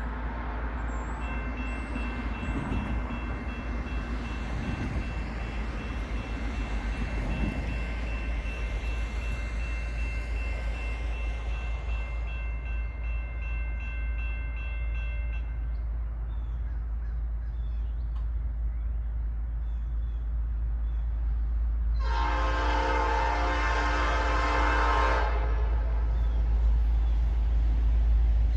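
Nathan P5 air horn on SD40E locomotive NS 6323 sounding as the train approaches: a long, fainter chord held for most of the first fifteen seconds, then a loud blast about 22 seconds in. Under it the rumble of the approaching diesel locomotive grows steadily louder.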